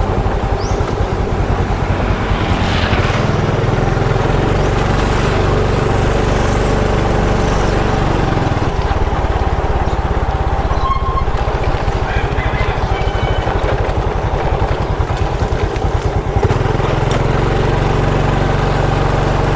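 Small motorcycle engine running steadily while riding, its note shifting a few times as the throttle changes.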